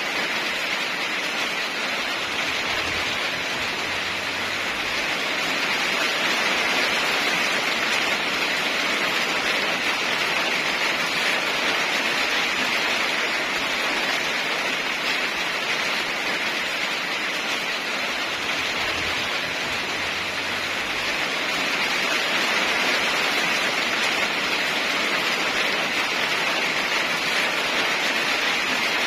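Heavy rain falling steadily, a dense even hiss that swells slightly now and then.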